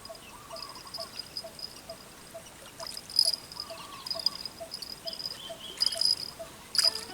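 Insects, crickets among them, chirping and trilling in high bursts over a steady pulsing call about four times a second, with a few sharp clicks, the loudest about three seconds in.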